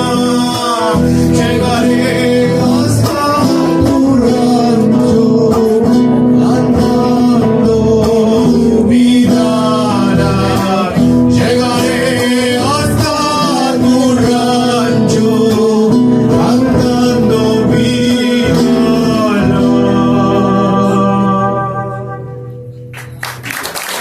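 Live Argentine folk music: voices singing over guitars. The song ends about 22 seconds in, its last chord dying away.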